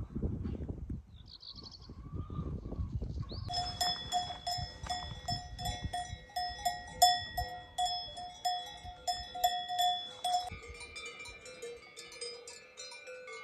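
Metal cowbells clanging, starting a few seconds in with quick, fairly even strikes, about two or three a second, as from a bell on a moving animal. Near the end, other bells of different pitch join in.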